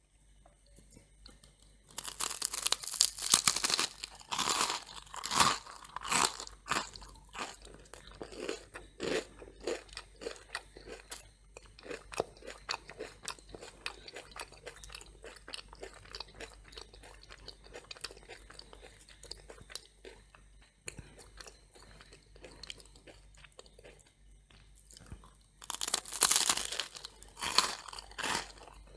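Close-up crunching of crisp toast being bitten and chewed. There are two loud crunching spells, one starting about two seconds in and one near the end, with softer steady chewing between them.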